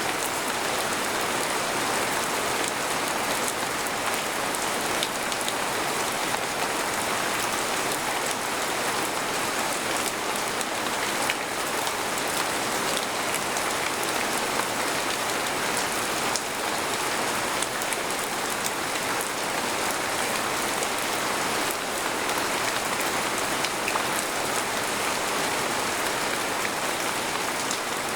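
Steady rain falling on a tent, a dense hiss with many individual drops striking close by.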